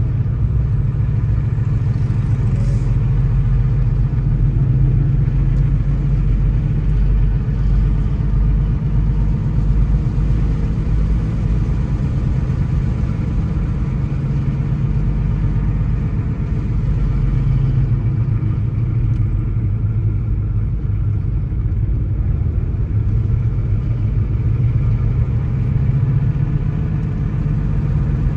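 A car driving at a steady speed, with a constant low rumble of engine and tyres on the road.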